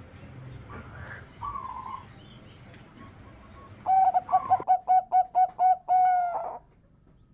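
Zebra dove (perkutut) singing: a faint cooing call, then a loud phrase a few seconds later that opens with one note and breaks into a quick run of short cooing notes, about six a second, closing on a longer note.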